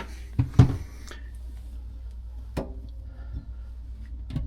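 Handling knocks: a couple of heavy thumps about half a second in, then a sharp tap in the middle and another near the end, over a steady low hum.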